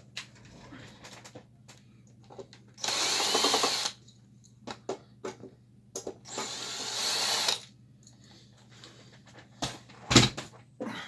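Powered screwdriver running in two short bursts, about a second and then a second and a half long, backing out two screws. A sharp knock near the end.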